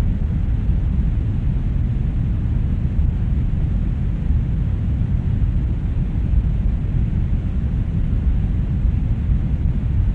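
Brown noise: a steady, deep rumbling hiss, strongest in the bass and fading toward the treble, unchanging throughout.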